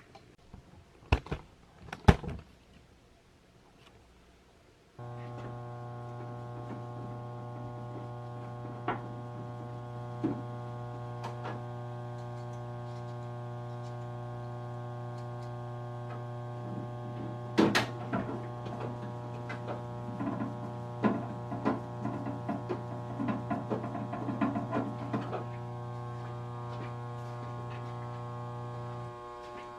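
Manitowoc ice machine: two sharp clicks as its front cover snaps onto its tabs, then about five seconds in a steady electric machine hum with a strong low tone and many overtones starts suddenly. It runs on until shortly before the end, with knocks and rattles over it in the middle.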